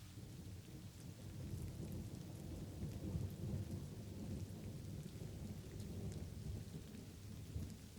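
Thunder rumbling low, swelling about a second in and easing off, over steady light rain with scattered drop ticks.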